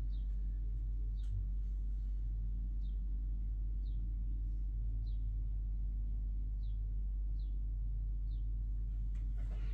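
A bird repeats a short, high chirp that drops in pitch, about once a second, over a steady low rumble.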